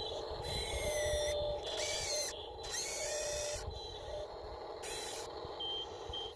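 Small electric motors of radio-controlled construction models whining in four or five short bursts, each a second or less, over a steady hum.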